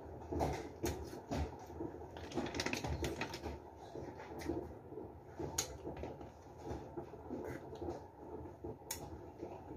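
Mouth and chewing sounds of someone eating a small piece of food by hand, with irregular small clicks and taps, over a steady low background hum.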